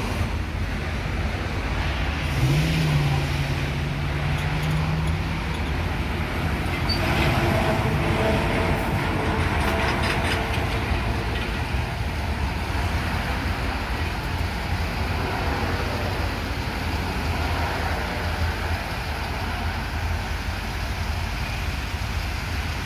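Road traffic passing with a steady low rumble. A few seconds in, a low steady tone holds for about three seconds, and around the middle a chord of several higher tones sounds for a few seconds.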